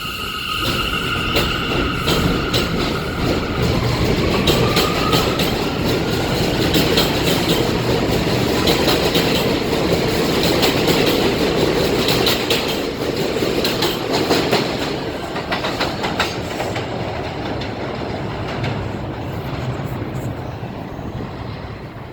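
New York City subway train on the elevated BMT Jamaica Line pulling out of the station: its motors whine up in pitch, then the wheels clatter over the rail joints with a light squeal, and the train fades off toward the end.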